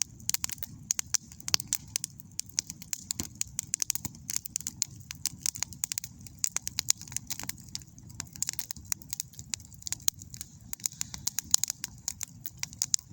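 Campfire crackling: wood snapping and popping in a dense, irregular run of sharp clicks over a low steady rumble.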